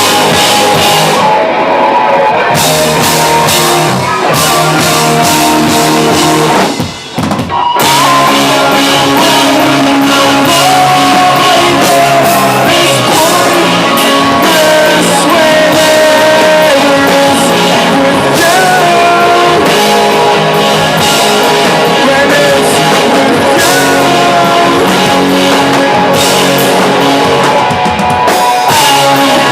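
Rock band playing live: drum kit, guitar and singing, with a short break about seven seconds in before the band comes back in.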